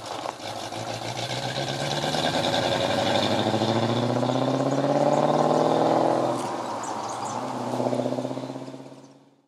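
Car engine accelerating, its pitch climbing for several seconds, dropping about six seconds in, then climbing again before fading out.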